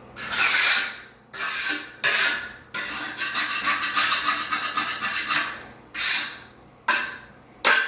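A float blade scraped across fairly dry shower pan mortar (sand-and-cement dry pack) in a series of gritty strokes, with one longer unbroken scrape of about three seconds in the middle, shaving excess mud down to the level line.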